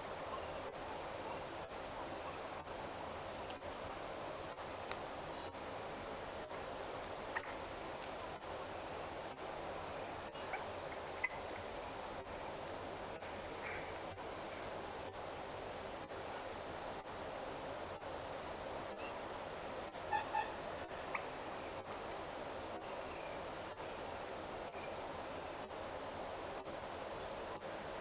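Monsoon-evening paddy-field chorus of crickets and frogs: a steady high insect trill with an even pulsing chirp about three times every two seconds over a dense chorus. A few short bird calls break in, a brief cluster of them about twenty seconds in.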